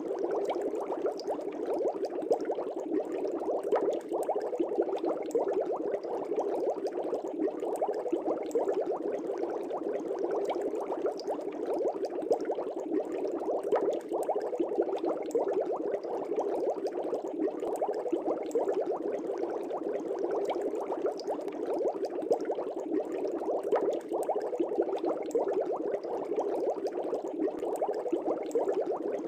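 Aquarium air bubbles rising and bursting at the surface of a fish tank, a steady busy bubbling.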